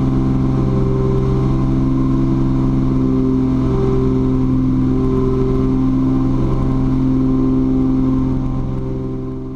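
Twin propeller engines of a Cessna T310R, turbocharged six-cylinder Continentals, droning steadily under climb power. The drone swells and fades every second or two, then fades out near the end.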